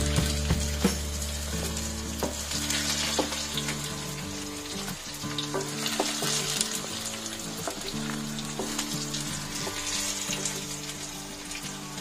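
Eggplant wedges sizzling as they shallow-fry in hot oil in a nonstick pan, with a wooden spatula scraping and turning them and lifting pieces out. Underneath are steady low tones and a low hum that fades about four seconds in.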